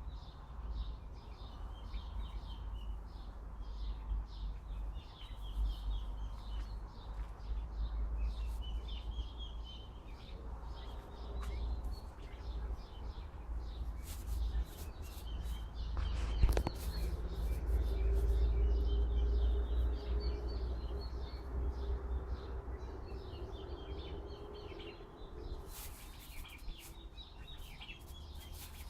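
Small birds chirping over and over, with wind rumbling on the microphone. A low steady hum rises and fades through the middle, and there is one sharp click about halfway.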